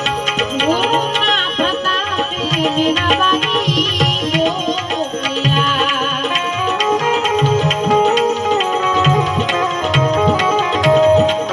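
Instrumental interlude of Gujarati devotional bhajan music: tabla keeping a steady rhythm under a melodic instrument playing held and gliding notes.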